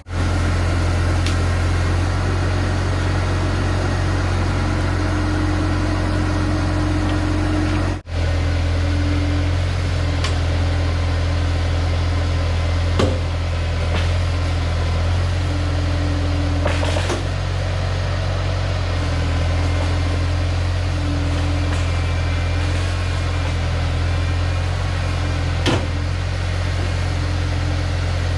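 Bobcat T250 skid-steer's diesel engine running steadily, with a few short knocks. The sound cuts out for a moment about eight seconds in.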